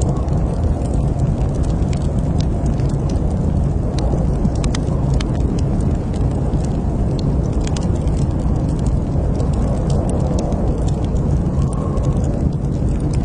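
Wood fire crackling, with frequent sharp, irregular pops and snaps over a steady low rumble of the flames.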